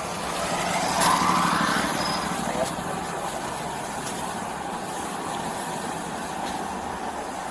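A motor vehicle passing, swelling about a second in and fading by about two and a half seconds, over steady traffic noise.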